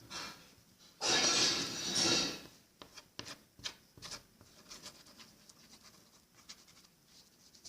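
Close handling noise: a rubbing, scraping sound for about a second and a half, then scattered light clicks and taps.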